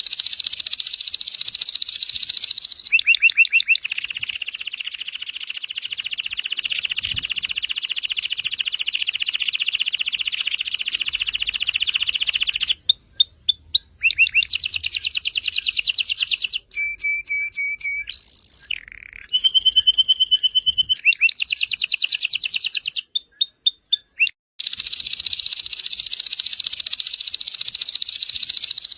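Domestic canary singing a loud, varied song of rapid rolling trills. A long unbroken roll lasts about the first thirteen seconds, followed by shorter tours that switch abruptly every second or two, with brief breaks between them.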